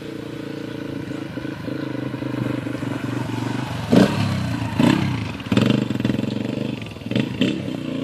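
Dirt bike engine running and growing louder, its pitch dipping and climbing back several times from about four seconds in as the throttle is let off and opened again.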